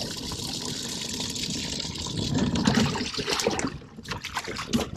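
Water running steadily, then splashing more heavily about halfway through, with a few sharp knocks near the end.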